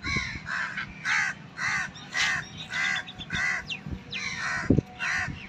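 A bird calling over and over, short calls at about two a second in a steady run.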